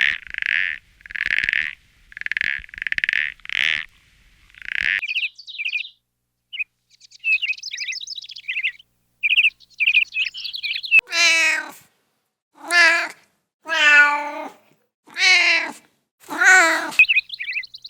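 A small bird chirping in short repeated notes, then a cat meowing five times in the second half, the meows coming a little over a second apart.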